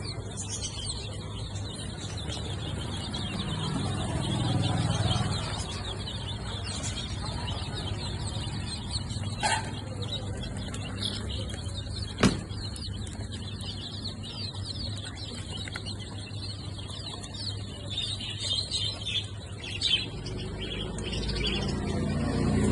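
A flock of small birds chirping and twittering together, a dense chatter of quick high calls. A low rumble swells twice, about four seconds in and near the end, and a sharp click sounds about twelve seconds in.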